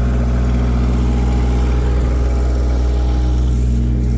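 Vehicle engine idling steadily, a low even hum, with a faint thin whine for a couple of seconds in the middle.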